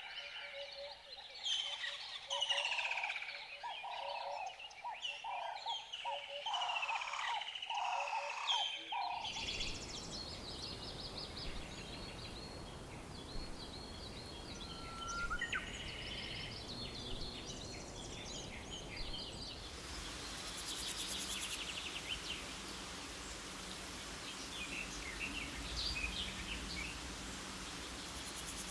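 Wild birds calling and singing in a series of separate field recordings. The recording changes abruptly about nine seconds in and again about twenty seconds in. The first part is busy with repeated calls and gliding whistles. The later parts have sparser calls over a steady background hiss.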